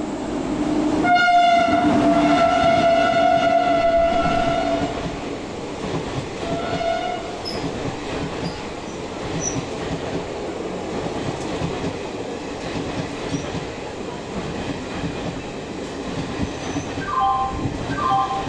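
Indian Railways train passing through a station at speed without stopping. Its horn sounds one long blast about a second in, lasting some four seconds, and a short second blast around seven seconds, followed by the steady rumble and clatter of the coaches going by. A few short chime-like tones come near the end.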